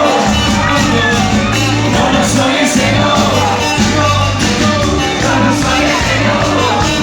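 Live band music with a steady, repeating bass beat, and crowd voices and shouts mixed in.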